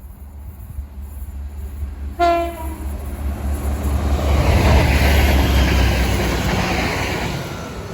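Diesel train sounding one short horn blast about two seconds in, then passing close by with a rising rush of wheels on rail that is loudest in the middle and fades near the end.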